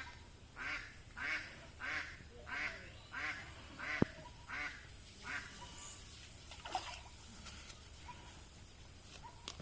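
A duck quacking in a steady run of about eight calls, roughly three every two seconds, that stops about five seconds in. A single sharp click falls among the calls.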